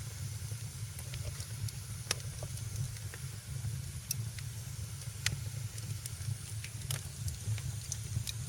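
Fire in a fireplace crackling: irregular sharp pops and snaps over a steady low rumble and a soft hiss.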